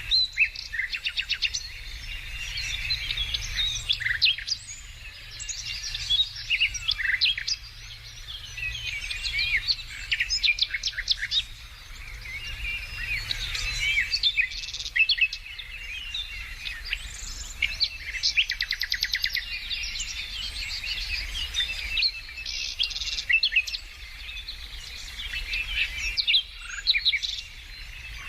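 Several songbirds singing together: overlapping chirps, short whistled notes and rapid trills, with a faint steady low rumble underneath.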